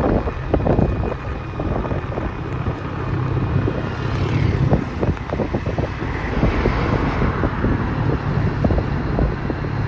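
Wind buffeting the microphone in constant irregular gusts while moving along a road, over the steady low hum of a running vehicle engine.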